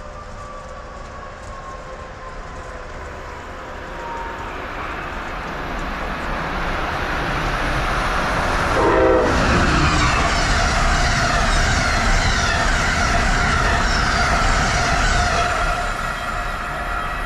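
Electric passenger train approaching and passing at speed. Its rumble builds to a peak about nine seconds in, then the cars rush by with a hissing rattle and a falling whine. The sound eases off near the end.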